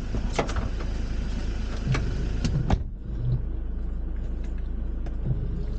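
Car door open onto rain: a steady hiss of rain and a few knocks, over the low hum of the idling engine. A little under three seconds in, the door shuts and the rain hiss drops away at once, leaving the engine hum inside the closed cabin.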